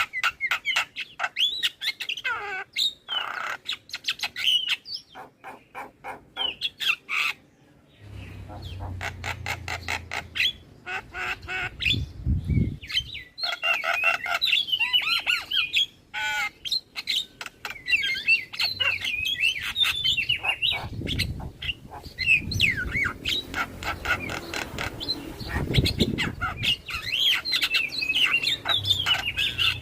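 Javan myna (jalak kebo) singing a long, rapid run of chatter: harsh squawks, whistled warbling notes and fast clicking. A low hum comes in about a third of the way through.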